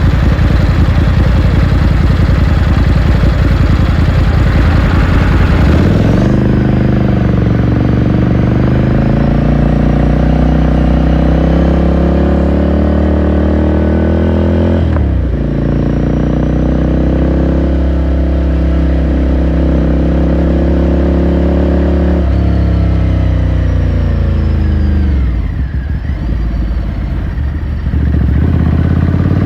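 The air-cooled 399 cc L-twin of a Ducati Scrambler Sixty2 is running on the move, heard from onboard. Its pitch holds and rises through a gear change about halfway through. Then it falls away as the bike slows, quietening briefly before pulling again near the end.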